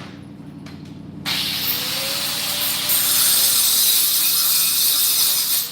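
A power tool starts about a second in and runs steadily with a harsh, hissing sound. It gets louder about three seconds in and cuts off just before the end.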